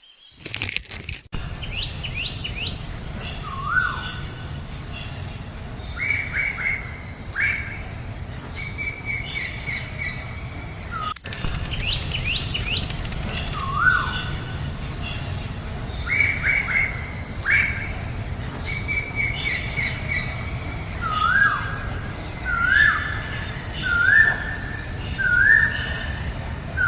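Birds calling in repeated short whistled phrases over a steady high-pitched insect drone, with a low even rumble beneath. Near the end one bird gives a run of five quick calls about a second apart.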